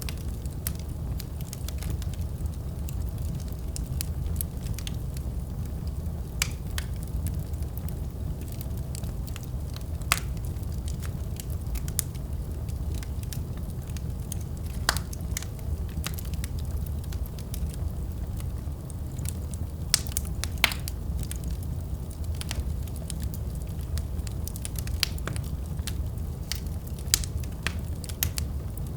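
Wood fire crackling: a steady low rumble of burning with irregular sharp pops and snaps scattered throughout.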